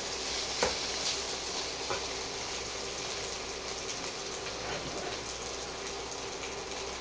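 Sardine, onion and chilli-paste mixture sizzling and crackling as it fries in a wok, with one sharp knock about half a second in.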